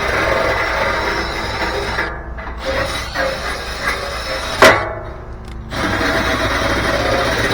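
A drill spinning a nylon brush scrubs the inside of a furnace blower wheel with a steady scraping. It breaks off briefly twice, and a sharp knock comes just before the second break.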